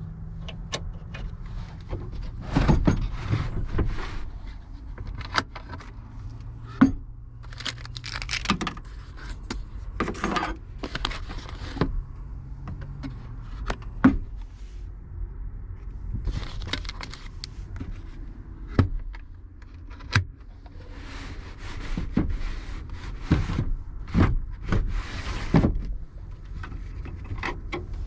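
Metal cutlery and small kitchen things clinking and clattering as they are handled in a drawer, with irregular sharp knocks and short scrapes, over a low steady hum.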